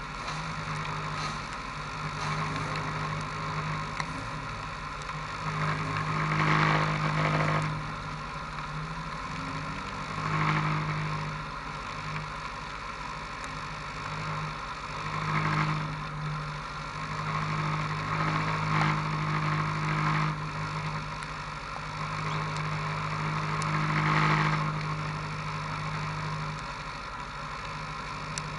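Autocross car engines idling on the grid, with the noise swelling briefly about every four or five seconds as the throttle is blipped.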